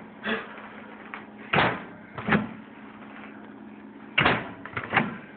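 Microwave oven door being handled, giving several sharp clunks and bangs at uneven intervals.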